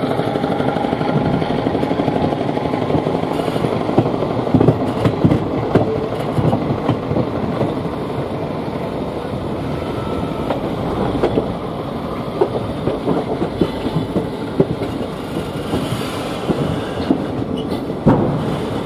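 Moving passenger train: the coaches running with a steady rumble, and the wheels knocking irregularly over rail joints and points.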